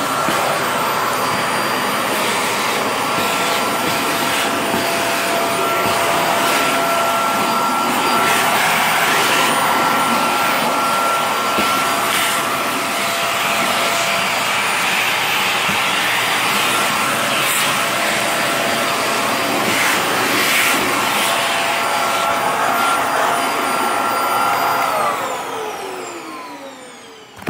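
Vacuum cleaner running steadily with a motor whine, then switched off about 25 seconds in, its motor spinning down with a falling whine.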